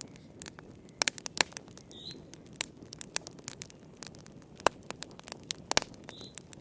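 Wood fire in a fireplace crackling, with irregular sharp pops and snaps over a low hiss of flame; a few pops stand out louder, about a second in and again around the fifth second.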